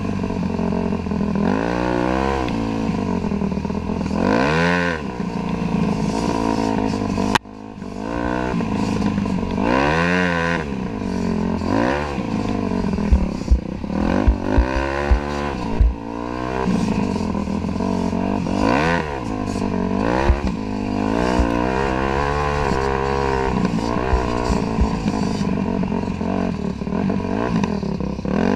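Dirt bike engine heard from a camera mounted on the bike, revving up and falling back over and over as the throttle is worked on and off. A sharp click and brief drop in level come about seven seconds in, and short knocks and rattles run through the second half.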